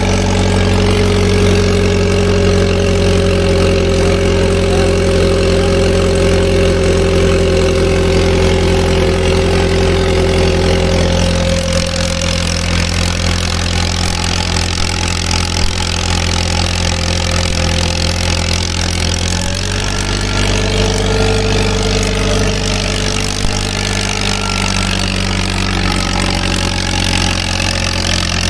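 Allis-Chalmers tractor engine running steadily. Its tone shifts about eleven seconds in and again about twenty seconds in.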